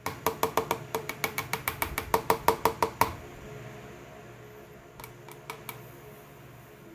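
A utensil clinking rhythmically against a ringing container, about six strikes a second for three seconds, then four lighter clicks about two seconds later.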